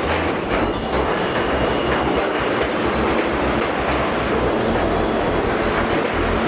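New York City subway train moving along the platform: a steady rumble of wheels on rail with clickety-clack from the rail joints. A faint thin wheel squeal sounds in the first couple of seconds.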